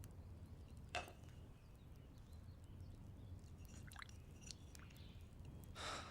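Near silence: a faint low background hum with a soft click about a second in and a few brief faint chirps later on.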